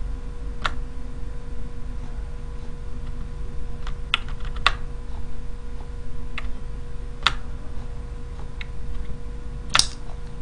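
Computer keys pressed one at a time: about eight separate clicks at irregular intervals, the loudest near the end, over a steady low hum.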